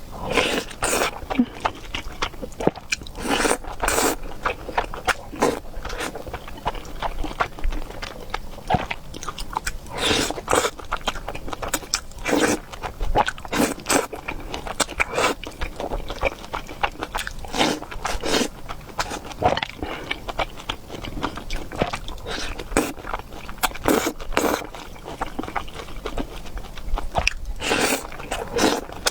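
Close-up eating sounds: wet slurping, chewing and biting, in irregular bursts with brief pauses.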